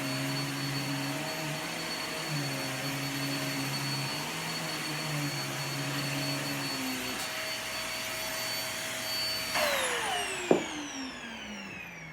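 Hoover vacuum cleaner running with a steady high whine, switched off about three-quarters of the way through, its motor then winding down in a falling whine. A single sharp knock comes just after the switch-off.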